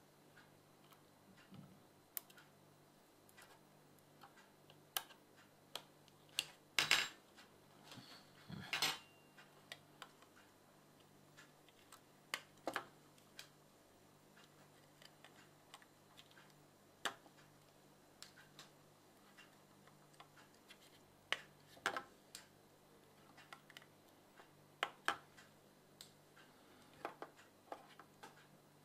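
Irregular small clicks and taps of tools and parts being handled, some in quick pairs, with a couple of louder knocks about seven and nine seconds in, over a faint steady hum.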